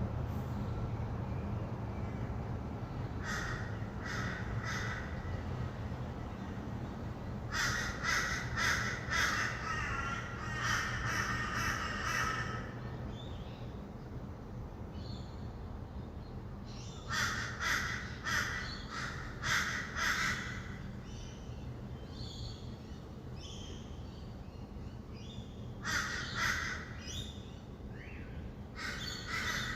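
Birds calling in several bouts of a few seconds each, every bout a fast run of short repeated notes, over a faint steady hum of distant city traffic.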